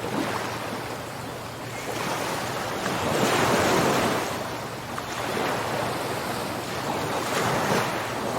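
Ocean surf: waves breaking and washing ashore in slow swells, the rush building to its loudest about three to four seconds in, easing, then building again near the end.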